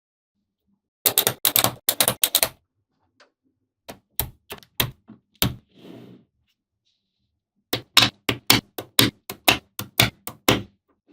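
Small magnetic balls snapping together in sharp clicks: a quick burst of clicks, a few single clicks, then a longer rapid run of clicks near the end.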